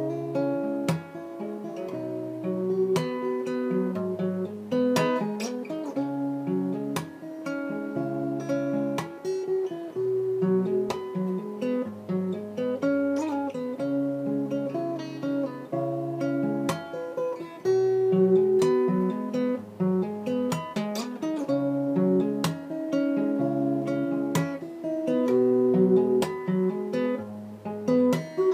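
Solo plucked string instrument playing a flowing melody over a moving bass line, note after note.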